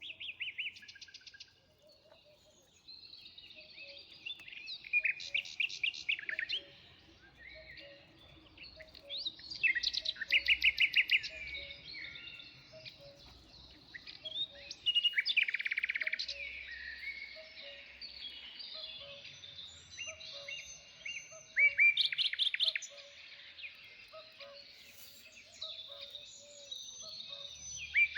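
Songbirds singing: loud, rapid trilled phrases every few seconds over softer continuous chirping, with a faint low note repeating steadily underneath.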